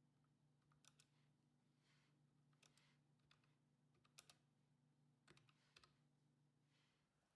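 Near silence: a few faint, scattered clicks over a low steady hum.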